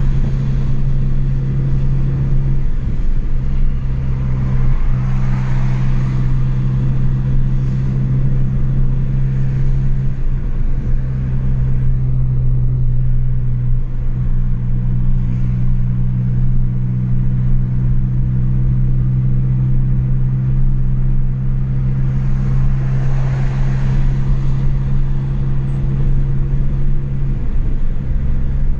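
Chevrolet Astra 2.0 inline-four with a straight-through exhaust, cruising at a steady engine speed: a loud, steady low exhaust drone whose pitch shifts slightly a few times.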